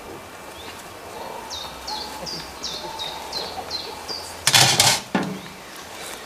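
A songbird sings a quick run of short, repeated falling chirps. About four and a half seconds in there is a loud rushing burst lasting about half a second, with a shorter one just after.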